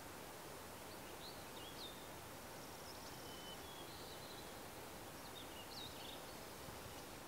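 Faint outdoor ambience: a steady hiss with distant songbird calls, two short phrases of chirps about a second in and again near six seconds.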